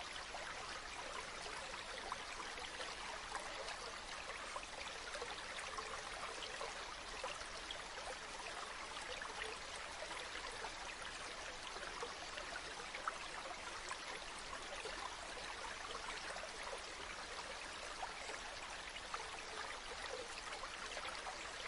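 River water flowing steadily over stones, a continuous babbling rush with small splashes and trickles throughout.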